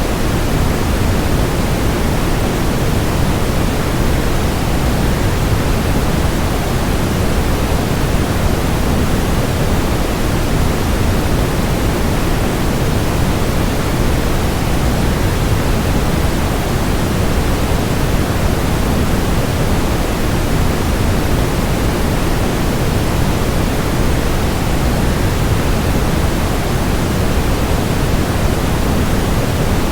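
Steady, unchanging rushing noise of a waterfall blended with a white-noise track, heavier in the low end than the high.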